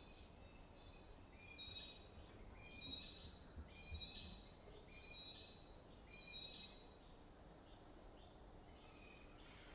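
Faint bird calls, a short two-part chirp repeated about once a second, clearest in the middle and fading toward the end, over quiet background hiss.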